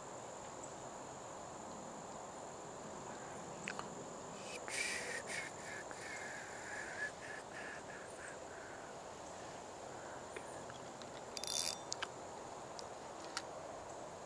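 A harsh bird call about five seconds in, with a shorter high-pitched call near the end, over a steady high-pitched whine and a few light scattered clicks.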